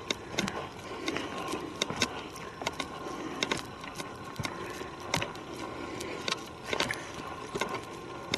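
Footsteps on a forest trail: irregular crunches and sharp clicks underfoot.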